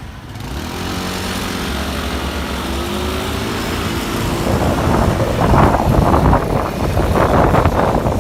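A train approaching and passing close by: a low engine hum grows louder, then about halfway through a loud, rough rushing and clattering takes over as it goes by.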